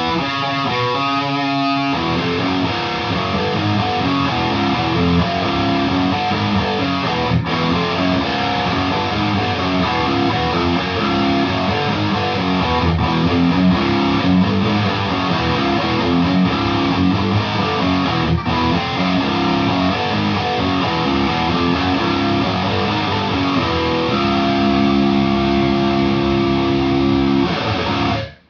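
Distorted electric guitar played through a Mesa/Boogie Mark V:90 amp and 2x12 cabinet, heard through a phone's microphone. Picked single notes give way to heavy riffing. Near the end a chord rings out and then cuts off suddenly.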